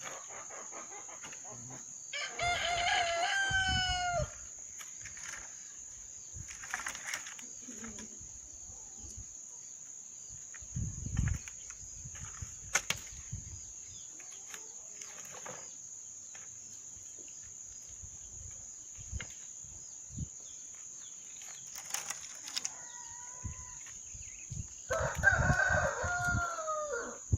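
A rooster crowing twice, each crow about two seconds long, once a couple of seconds in and again near the end, with a fainter call in between. Under it runs a steady high-pitched buzz, with a few scattered knocks.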